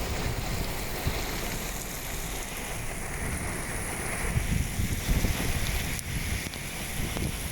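Rain falling steadily, with wind gusting on the microphone.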